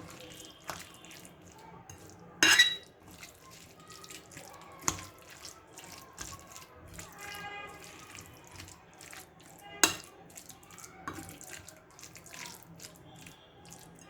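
Hands squeezing and mixing chicken pieces in a wet yogurt-and-oil marinade in a bowl: wet squelching with many small clicks. There are sharp clinks, the loudest about two and a half seconds in, with others at about five and ten seconds.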